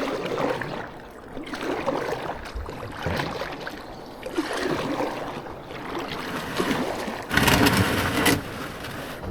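Kayak paddling: the paddle dipping and splashing in the water in uneven strokes about once a second. A louder rushing noise comes about seven seconds in and lasts around a second.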